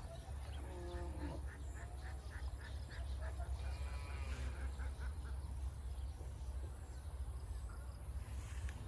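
Birds calling, most likely domestic fowl: a quick, even run of about a dozen short repeated calls lasting about four seconds, with a few longer calls, over a steady low rumble.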